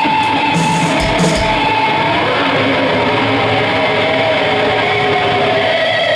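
Live metal band on stage: distorted electric guitar holding sustained notes, with a few drum and cymbal hits about a second in.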